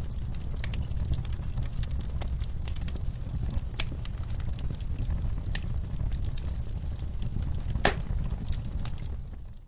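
Fireplace fire crackling: a steady low rumble of flames with scattered sharp pops, one louder pop about eight seconds in.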